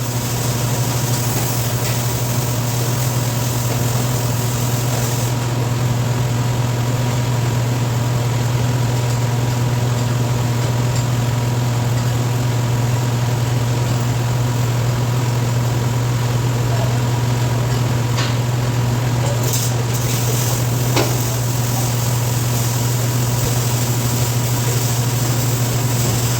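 A steady low machine hum with a faint high tone above it, unchanging throughout, with a couple of faint clicks in the second half.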